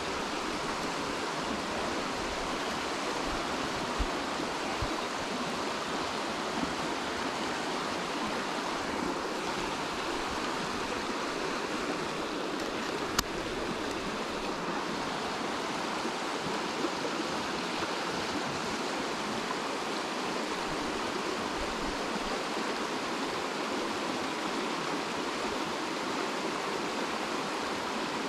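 Running water rushing steadily, with a single sharp click about thirteen seconds in.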